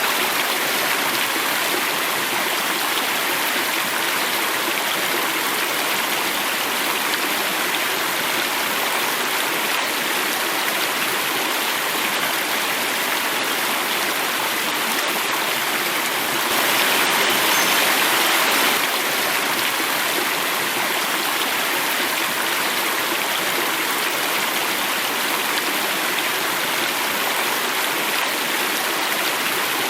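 Running water falling in a small cascade: a steady, even rushing, a little louder for about two seconds past the middle.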